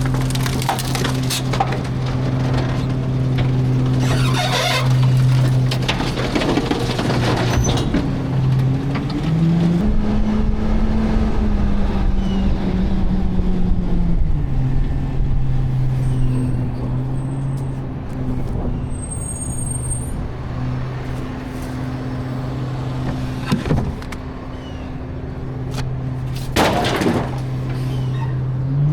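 Garbage truck engine idling, speeding up for about five seconds near the middle and then settling back to idle, with a few short bangs and hissing bursts over it.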